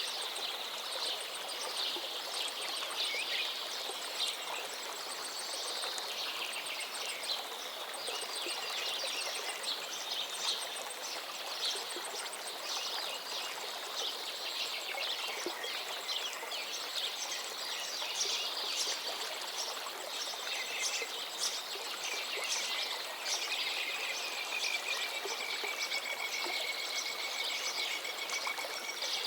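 Several birds singing and chirping over the steady rush of a flowing river. A fast, high ticking trill runs through the first half, and a long held whistle comes near the end.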